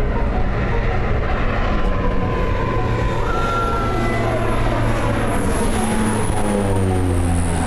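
Seaplane's propeller engine flying low past, its pitch falling in the second half as it goes by.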